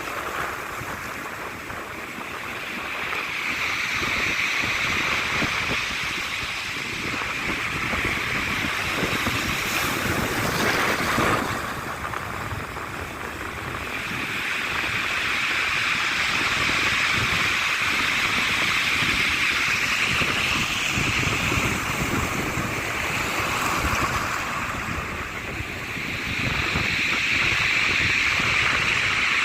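Sea surf washing onto the beach, swelling and easing every several seconds with a louder surge about ten seconds in, and wind buffeting the phone's microphone.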